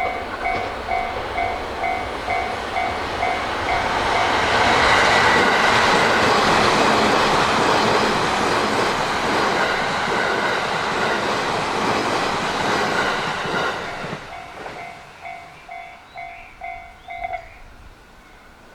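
A level crossing's electronic warning bell rings in steady pulses about twice a second while an E657 series electric train passes through the crossing with a loud rush of wheel and rail noise for about ten seconds. Once the train has gone, the bell rings on alone and cuts off a few seconds before the end.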